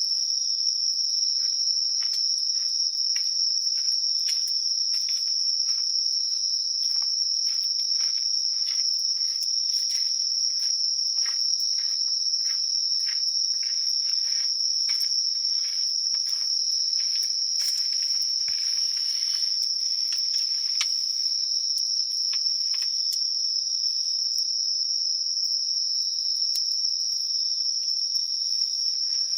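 Crickets and other insects chirping: a continuous high-pitched trill, joined for about the first half by a lower, pulsing chirp repeating about twice a second.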